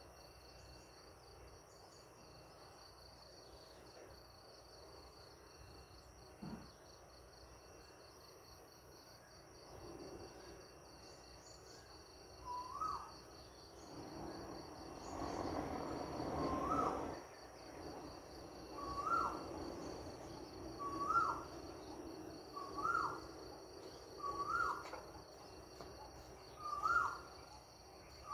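Insects trilling steadily in a high, pulsing drone. About halfway in, a bird starts repeating a short, hooked call about every two seconds. A brief swell of rushing noise comes up and dies away in the middle.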